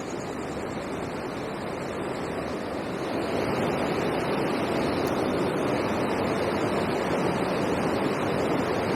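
Steady rush of river water pouring over a weir, a little louder from about three seconds in.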